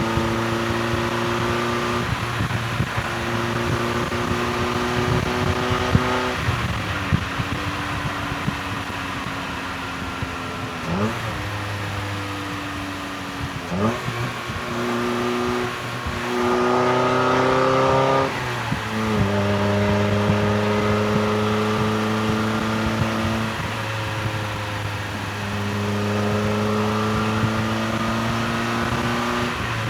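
Mazda MX-5 Miata (NB) four-cylinder engine and exhaust driven hard on a manual gearbox. The engine note climbs within each gear and drops back at each gear change, several times over. The loudest pull comes about two-thirds of the way through.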